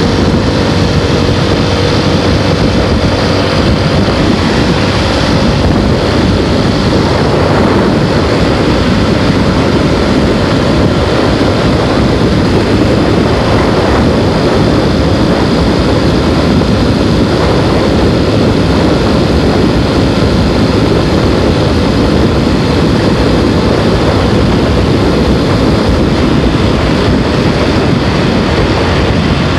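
Motorbike riding along at speed: a loud, steady rush of wind and road noise with the engine running underneath.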